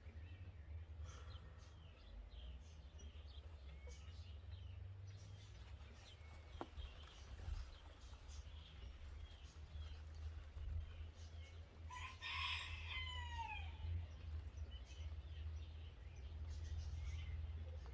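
A rooster crows once, about twelve seconds in: one call of roughly two seconds that drops in pitch at the end. Small birds chirp here and there, over a steady low rumble.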